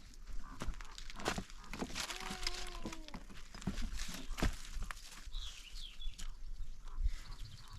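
A farm animal bleats once, briefly, about two seconds in, over scattered knocks and clicks. Short high bird chirps come near the start and again about five and a half seconds in.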